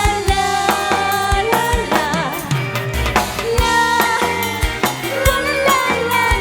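Live band music: a drum kit keeping a steady beat under a melody line with vibrato.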